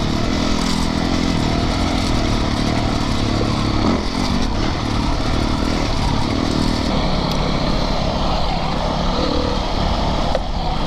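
Yamaha YZ450FX dirt bike's single-cylinder four-stroke engine running steadily while being ridden.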